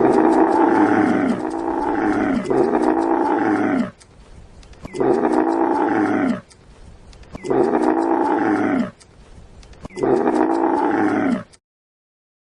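A large animal calling loudly again and again: six long calls, each one to one and a half seconds and dropping in pitch at its end. The first three come back to back, and three more follow about a second apart.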